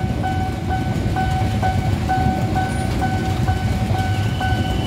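Passenger train carriages rolling past on a level crossing with a steady rumble, while the crossing's warning bell sounds a rapid, repeating electronic ding several times a second.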